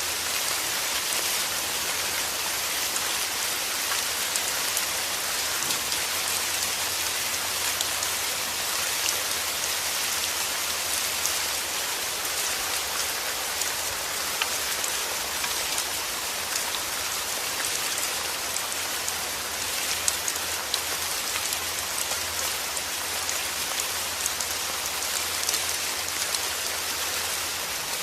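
Steady rain falling on a surface, an even hiss with scattered sharp drop ticks throughout.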